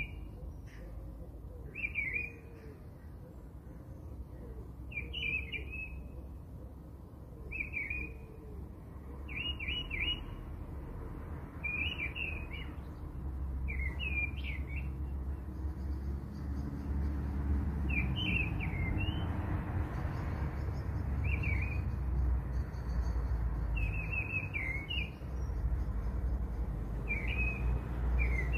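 A small bird chirping: short high chirps repeating about every one to two seconds, over a low background rumble that grows louder about halfway through.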